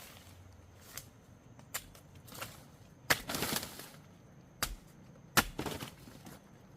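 A digging tool striking into earth around a giant taro root: five or so sharp, irregular strikes, the louder ones each followed by a short scrape of loosened soil.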